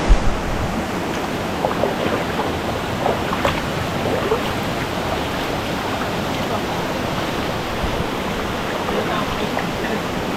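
Steady rush of a rocky mountain river, with faint distant voices. There is a brief knock right at the start.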